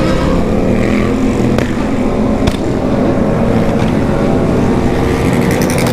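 Several motorcycle engines running loud together in a dense, overlapping din. Two sharp cracks stand out, about a second and a half and two and a half seconds in.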